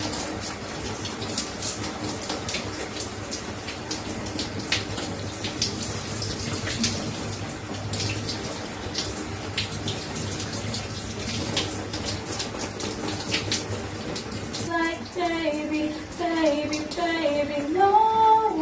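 Steady rush of running water, like a tap or shower, with scattered small splashes and clicks. About fifteen seconds in, a voice joins it with pitch rising and falling in short phrases.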